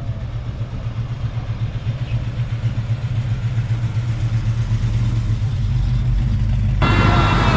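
A car engine idling: a low, steady rumble with a regular pulse, the higher sounds muffled until fuller sound returns abruptly near the end.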